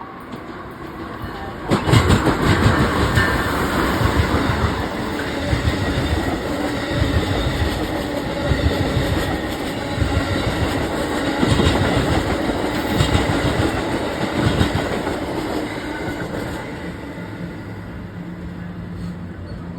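Train passing close by, its wheels clacking over rail joints. The sound rises suddenly about two seconds in, stays loud with irregular knocks, and fades over the last few seconds.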